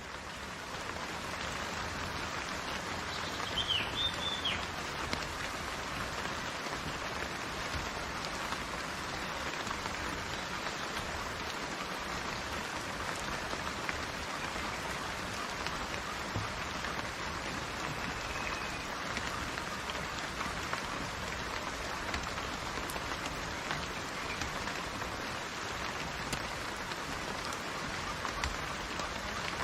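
Steady rain falling, an even hiss without let-up. A brief high chirp sounds over it about four seconds in.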